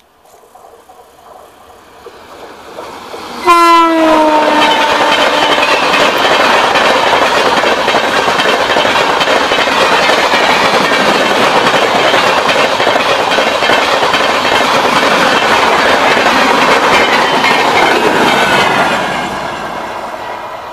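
An Indian Railways express train hauled by an electric locomotive passes at speed. The locomotive's horn blasts suddenly about three and a half seconds in, its pitch dropping as the engine goes by. The coaches then roll past in a steady, loud rush of wheel-on-rail noise for about fifteen seconds, which fades near the end as the train moves away.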